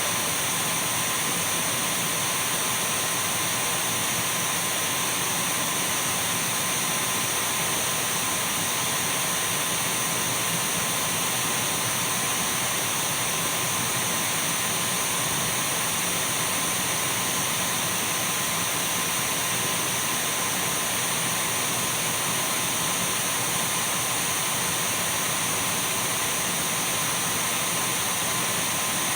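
Dyson V12 cordless stick vacuum cleaner running steadily: an even rush of air with a thin, high, constant motor whine over it.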